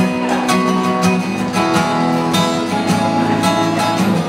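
Acoustic guitar strummed in a steady rhythm, chords ringing, between sung lines of a song.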